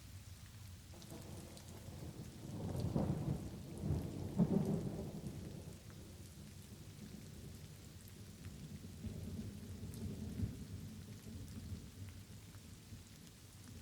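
Light rain falling steadily, with rolling thunder that builds a second or two in and is loudest around four to five seconds, then a second, softer rumble of thunder around ten seconds in.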